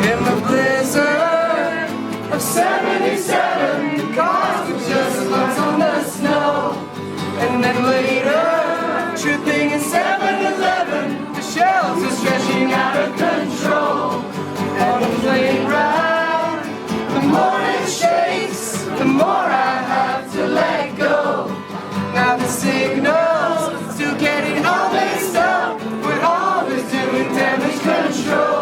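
Live acoustic rock song: strummed acoustic guitar under singing voices, continuous throughout.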